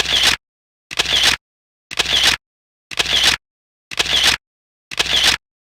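Camera shutter sound, six identical clicks about once a second with dead silence between them, like a shutter effect laid over a run of photos.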